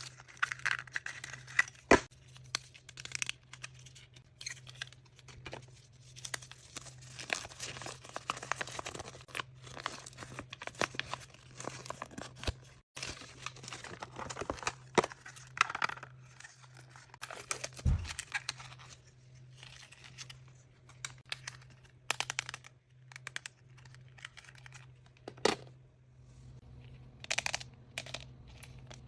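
Paper and plastic wrapping being crinkled and torn off a surprise toy by hand, in irregular bursts with sharp clicks and taps of the toy and packaging being handled.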